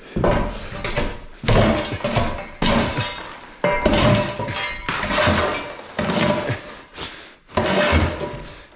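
Steel shovel scraping across a wooden floor and scooping up broken lath-and-plaster debris, with harsh crunching scrapes and clattering chunks repeating about once a second.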